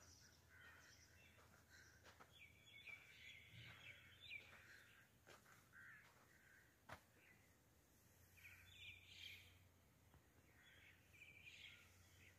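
Near silence with faint bird chirps coming in a few short flurries, and a couple of soft clicks.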